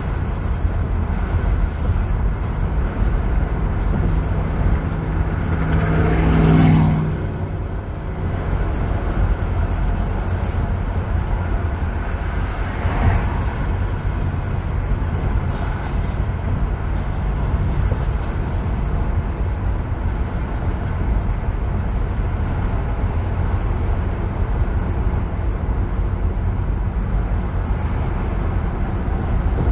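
Steady road noise of driving on a freeway: a constant low rumble of tyres and wind. About six seconds in, a louder vehicle sound swells and drops in pitch as it goes past, and there is a shorter swell about thirteen seconds in.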